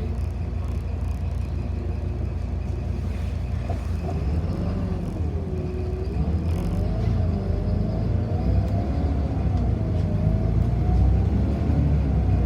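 Steady low rumble of a city bus riding, heard from inside. From about four seconds in, a thin whine rises and falls in pitch over the rumble.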